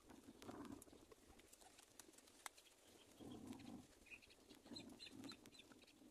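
Faint bird sounds: a few soft low calls about half a second long, some short high chirps in the second half, and small clicks.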